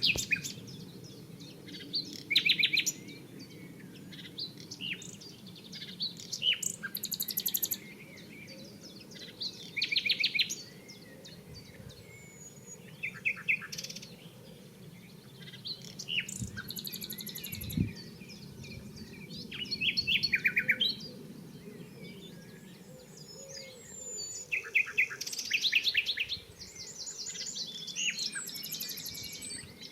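Common nightingale singing: loud phrases of rapid repeated notes and clear whistles, separated by pauses of a few seconds.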